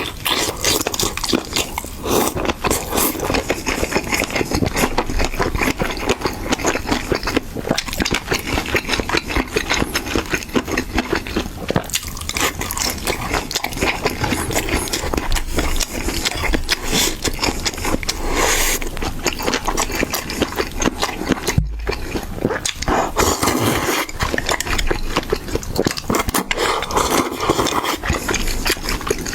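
A person chewing and biting braised chicken feet: many quick, irregular mouth clicks and crackles, with a short pause a little after two-thirds through.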